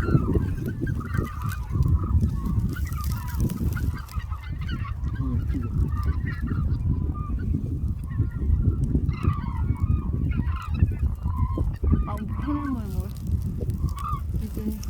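A flock of hooded cranes calling continuously, many overlapping short calls, over a steady low rumble.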